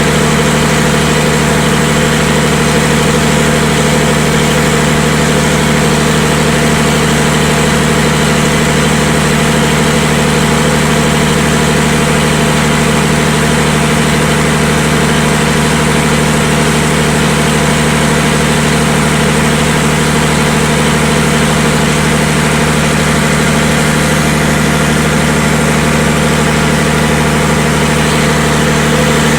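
Diesel generator engine running at a steady, constant speed, a loud, even drone with no change in pitch or level.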